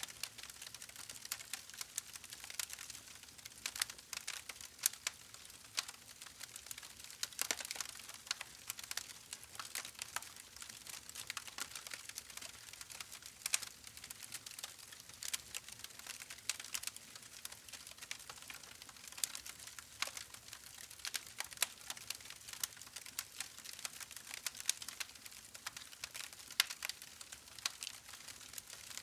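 Wood fire burning in a fireplace, crackling: irregular sharp pops and snaps over a soft hiss.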